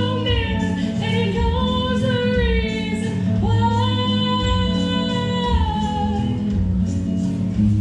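A woman singing long, held notes of a slow western ballad over a steady instrumental accompaniment.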